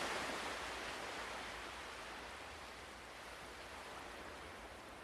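Ocean waves washing on a shore, a steady hiss of surf that swells at the start and slowly ebbs away.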